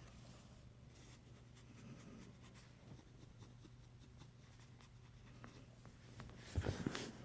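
Faint scratching and rustling from dogs moving about, with a louder scuffling burst about six and a half seconds in.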